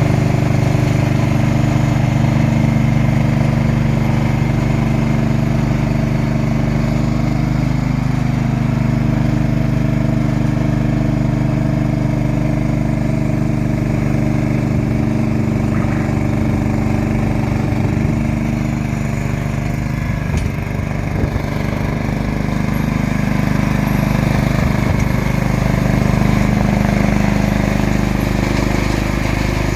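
John Deere machine with a snowblower, its engine running steadily while it clears snow; the engine pitch shifts slightly a couple of times.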